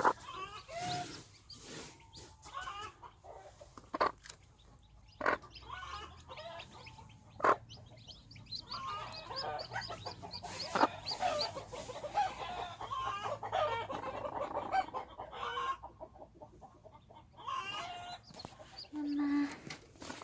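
Broody hen clucking with chicks peeping around her, the calls thickest in the middle, with several sharp knocks.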